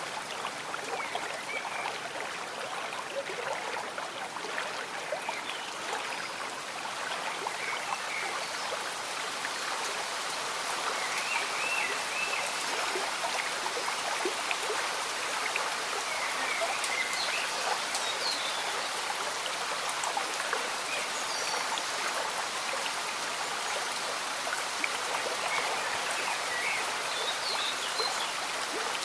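Gentle stream bubbling and trickling under light rain, a steady water hiss that swells a little about a third of the way in. Faint short chirps come now and then over it.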